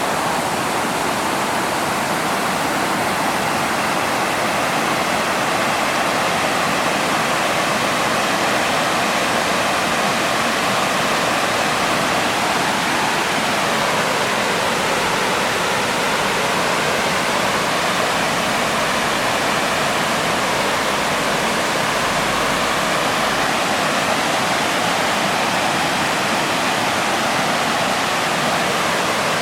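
Fukiwari Falls, a broad, low waterfall, rushing steadily.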